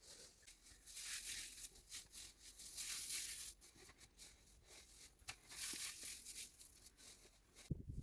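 Dry rustling and crackling of material being handled, coming in uneven surges with small clicks and ticks. A low rumble starts just before the end.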